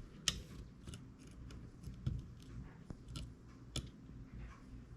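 Scattered small, sharp clicks and taps of a precision screwdriver and tiny screws against an iPhone 6s frame as it is screwed back together.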